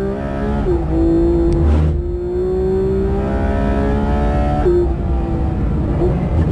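Porsche 911 GT3 RS's naturally aspirated flat-six at high revs under load. Its pitch dips briefly about a second in and again near five seconds, climbing slowly in between.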